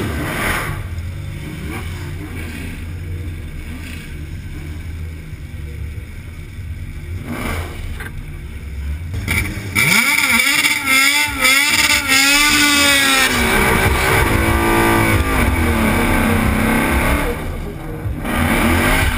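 Ford Mustang 5.0 Coyote V8 idling with a low rumble, then revved hard for a burnout about ten seconds in. The revs rise and fall over and over as the rear tyres spin, ease off, and surge again near the end.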